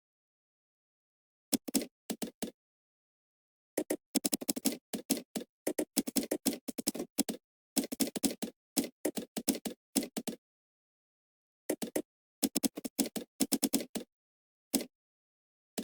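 Computer keyboard typing in runs of rapid keystrokes broken by short pauses, with dead silence between the runs.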